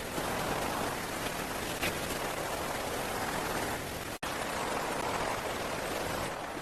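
Steady hiss of water, cutting out for an instant about four seconds in.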